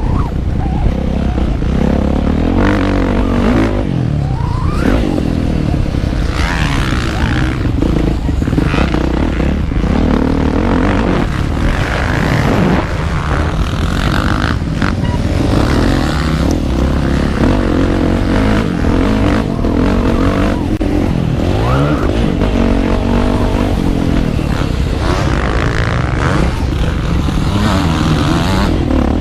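Motocross bike's engine revving hard, its pitch repeatedly climbing and dropping as the rider works the throttle and gears, over a steady low rumble.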